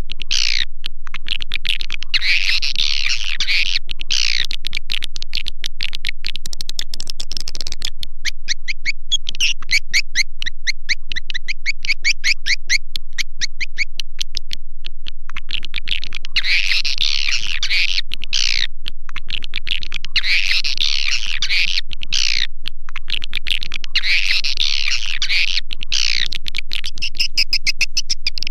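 Swiftlet calling-sound recording: bursts of dense, high twittering chirps, each about two seconds long, alternating with short gaps, and in the middle a run of rapid separate chirps at about five a second.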